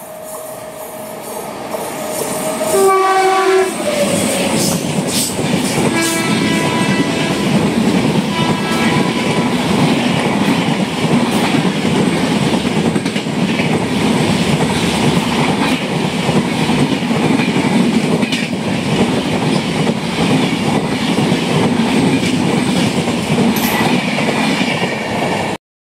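Superfast express train running through a station at speed. The locomotive's horn sounds as it approaches and drops in pitch as it passes, and sounds again a few seconds later. Then a long line of coaches rushes by with wheels clattering over the rail joints, and the sound cuts off suddenly near the end.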